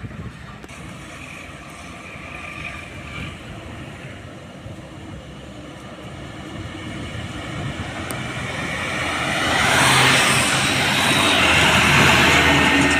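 A truck driving past on the road: engine and tyre noise swell from about seven seconds in, loudest close to the end as it passes.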